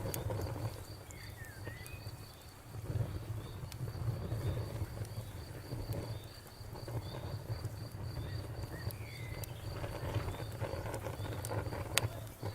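Campfire crackling with scattered sharp pops, one louder pop near the end, over a low rumble. A cricket chirps steadily throughout, and two short bird-like chirps come about a second in and again later.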